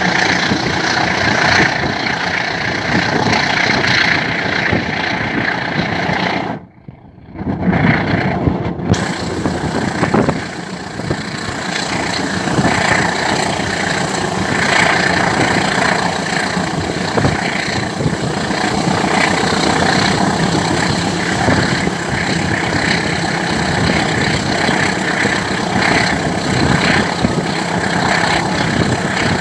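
Passenger train running at speed, heard from a coach window: a steady rush of wind and wheel-on-rail noise. The sound cuts out for about a second around seven seconds in.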